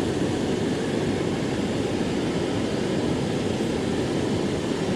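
Waterfall roar: a steady, unbroken rush of falling water, strongest in its low rumble.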